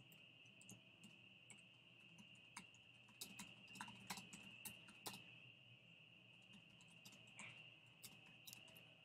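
Faint, steady high-pitched drone of a distant animal chorus, with irregular sharp clicks scattered over it, most of them bunched about three to five seconds in.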